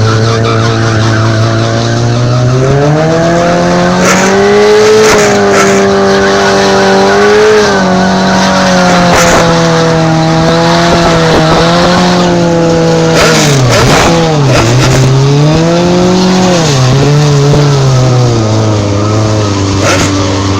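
Drag-racing sportbike engine revving: it climbs to high revs about two seconds in and is held there with small wobbles, drops sharply about two-thirds of the way through, climbs again, and settles back lower near the end.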